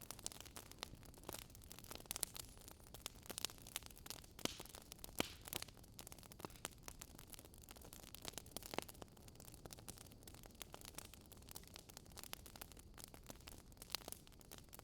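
Wood fire crackling softly: irregular sharp pops and snaps over a faint low rumble.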